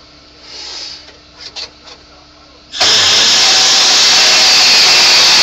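A few faint clicks, then about three seconds in an air-powered die grinder starts suddenly and runs steadily at full speed with a high whine and hiss.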